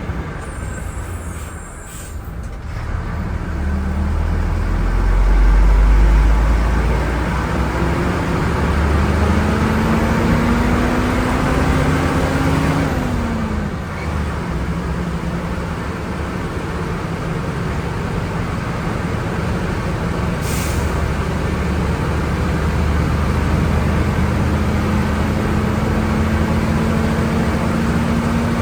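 Volvo B10M bus's underfloor diesel engine pulling under load, its note climbing through a gear, dropping sharply at a gear change about halfway through, then slowly climbing again. A short air hiss from the brake system comes about two-thirds in.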